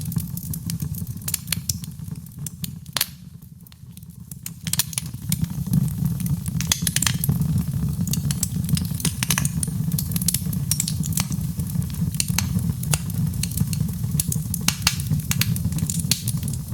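Wood fire crackling in a fireplace: scattered sharp pops and snaps over a steady low rumble of the flames, which dips briefly a few seconds in.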